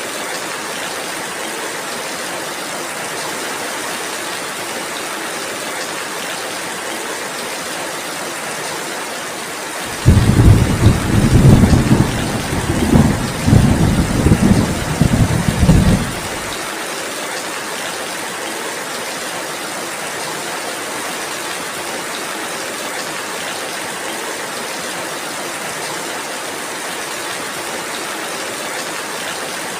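Steady rainfall, an even hiss. About ten seconds in, a loud low rumble rolls in over it for about six seconds and then cuts off abruptly.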